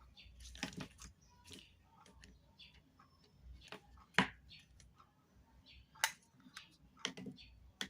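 Scattered clicks, taps and short rustles of small objects and packaging being handled, with a sharp click about four seconds in and another about six seconds in.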